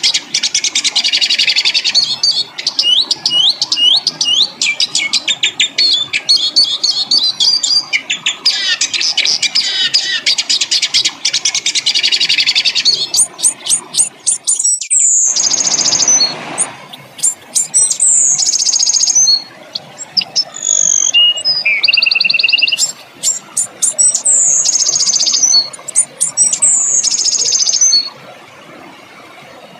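Songbird song made of dense rapid trills and chattering, with a brief harsh rasping burst about halfway through, then repeated down-slurred whistled phrases. It ends a couple of seconds before the close.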